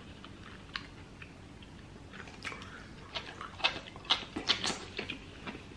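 Close-miked chewing of meat: wet, smacking mouth clicks that come irregularly, a few a second, starting about two seconds in after a mostly quiet start.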